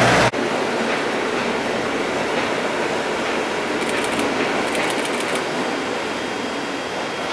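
Train running slowly through the station tracks: a steady rumble, with a short run of light clicks about four seconds in as the wheels cross the pointwork.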